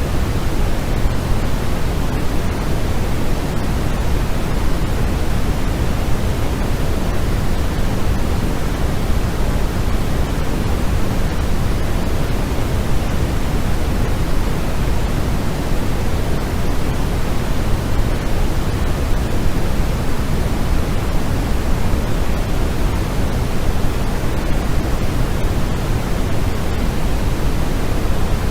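Steady, unchanging white noise for sleep, a deep even hiss with most of its weight in the low end.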